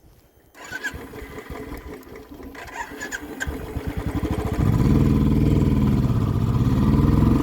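Motorcycle engine coming in about three and a half seconds in and quickly growing loud, its pitch dipping once and climbing again, with a few clicks and knocks before it.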